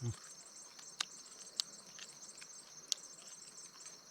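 Crickets trilling steadily in a high, pulsing chorus, with a few sharp clicks about a second apart.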